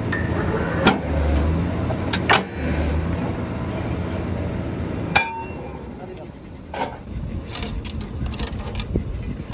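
Borewell drilling rig's machinery running steadily, with sharp metal clangs about a second in, just after two seconds and near the middle. After the last clang the running drops to a lower level, with scattered lighter knocks.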